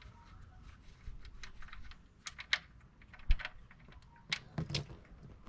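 Irregular light clicks and taps of hand tools and the oil pan drain plug being handled under the car, with one dull knock about three seconds in.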